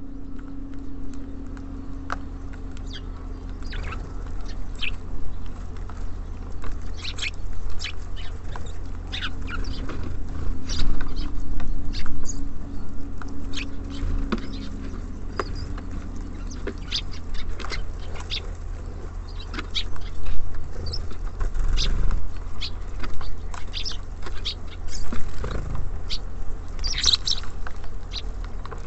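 Small birds at a feeder pecking and tapping at seed, with many quick taps and scratches and scattered short high chirps, over a steady low hum.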